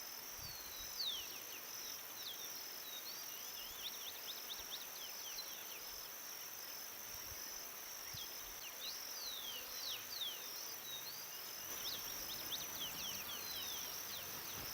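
Outdoor ambience of insects trilling in a steady, pulsing high chorus, with clusters of quick, falling high-pitched chirps from other small animals throughout.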